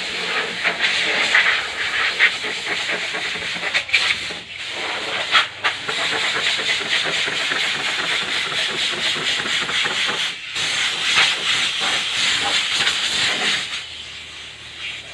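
Rough, steady scraping of a tool worked over a wooden truck-bed board being puttied, in long continuous strokes broken by a few short pauses, tailing off near the end.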